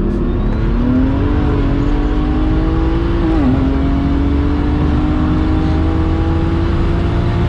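Single-turbo BMW 135i's straight-six at full throttle, heard from inside the cabin. Its note climbs steadily through the gears, with a short drop at an upshift about three and a half seconds in.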